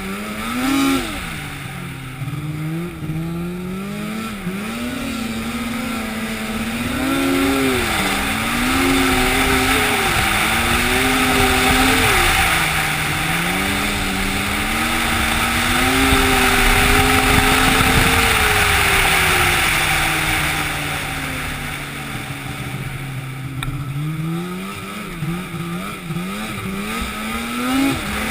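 An engine running with its pitch rising and falling again and again, and a hissing noise that swells through the middle and fades near the end.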